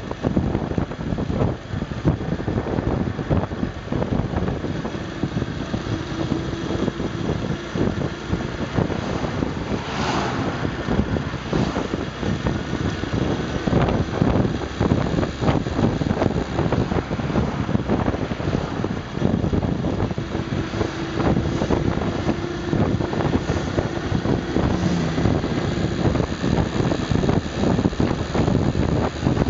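Honda Super Cub 110's single-cylinder four-stroke engine running steadily under way on an uphill climb, with wind buffeting the microphone.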